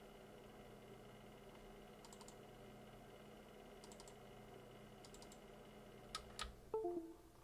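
Faint quiet background with a few soft clicks, then several sharper clicks with brief ringing clinks near the end, as of small tools or parts being handled on a workbench.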